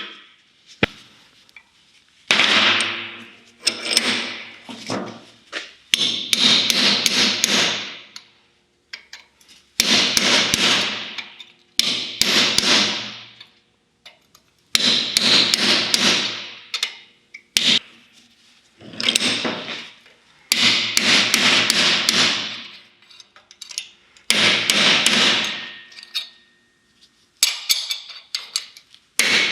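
Hammering on car-body sheet metal: repeated runs of rapid strikes, each run a second or two long with short pauses between, the metal ringing after the blows.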